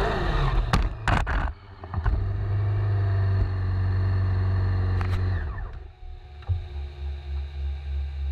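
Motorcycle engine revving, with a few sharp clicks early, held steady at high revs for a few seconds, then dropping back to a pulsing idle about five and a half seconds in.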